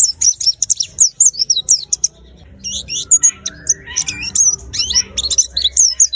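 A pleci (white-eye) singing a fast, continuous string of high, sliding chirps, with a short break about two seconds in. This is the lively, near-nonstop song that keepers call gacor.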